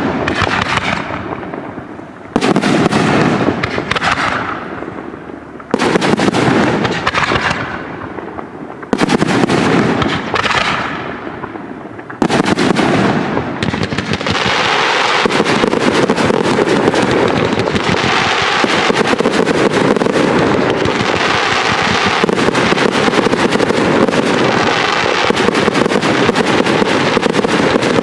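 Aerial fireworks display: big shell bursts about every three seconds, each fading away over a couple of seconds. From about halfway through, a dense, unbroken rattle of many small bursts takes over.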